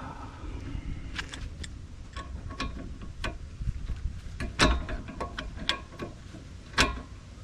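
Irregular metallic clicks and knocks of hand tools on a rear sway bar stabilizer link fastener, with two louder knocks about halfway through and near the end.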